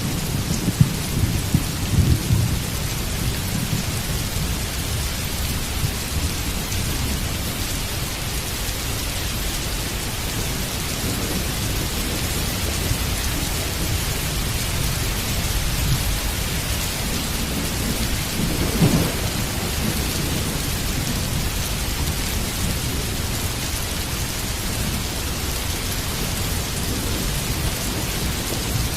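Heavy rain falling steadily, with thunder rumbling low underneath. The thunder swells in the first couple of seconds and again about two-thirds of the way through.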